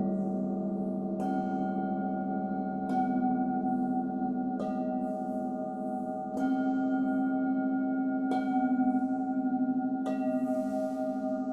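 Singing bowls struck in turn, six light strikes about every second and a half to two seconds. Their long ringing tones overlap, over a low tone that wavers.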